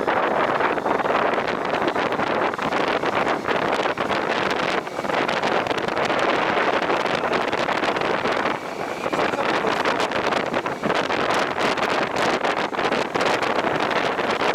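Wind rushing over the microphone on a moving motorcycle, a steady loud rush of noise that comes and goes with gusts.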